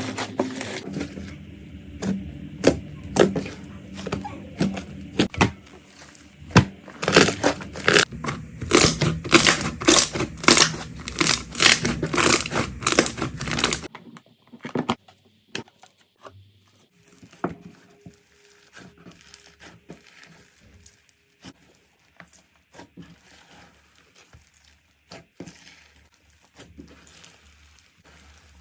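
Slime being squished and stretched, making a dense run of sharp crackles and pops. About halfway through it changes abruptly to much quieter, softer squishing with only faint scattered crackles.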